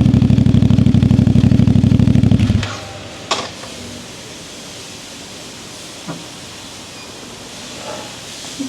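CFMoto 450MT's parallel-twin engine idling with a steady low pulse, then shut off about two and a half seconds in. Afterwards come a sharp click and a couple of faint knocks.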